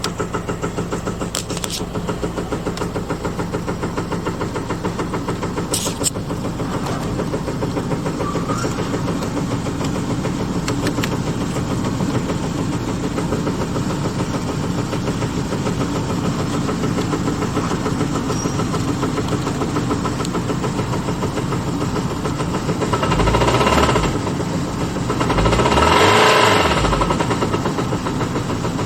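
BMW MINI Cooper D Crossover's N18 1.6-litre four-cylinder turbodiesel idling steadily, then revved briefly twice near the end, each rev rising and dropping back to idle.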